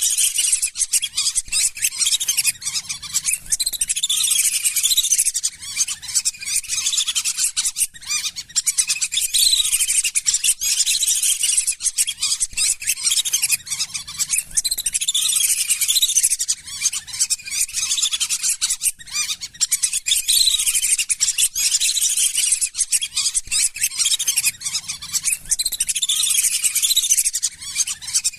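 Lesser whistling ducks calling: a continuous chorus of high, rapidly repeated whistles.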